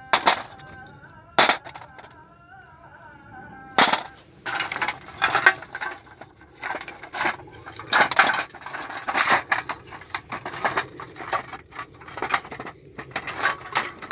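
Small metal objects clinking and rattling as they are handled, with a few sharp knocks in the first four seconds and denser clinking after.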